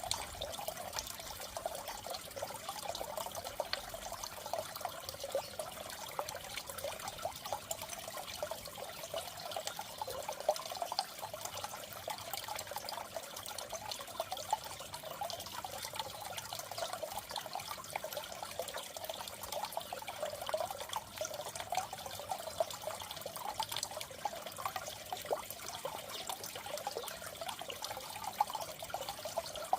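Water trickling and splashing steadily in a goldfish aquarium, a continuous, even watery sound with no pauses.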